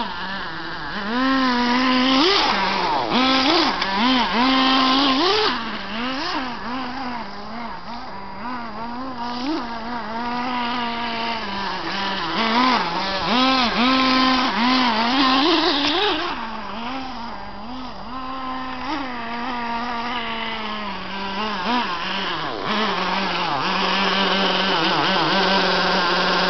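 Kyosho TR-15 Stadium RC monster truck's small nitro engine running with a high buzz, revving up and down over and over as the throttle is blipped, with louder full-throttle stretches about two to five seconds in and again around twelve to sixteen seconds in.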